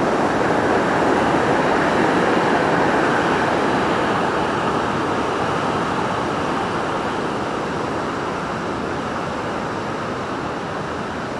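Steady rush of water from the Amblève river, gradually getting quieter.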